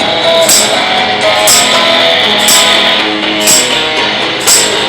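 Blues fuzz guitar playing a riff, with a tambourine struck about once a second on the beat.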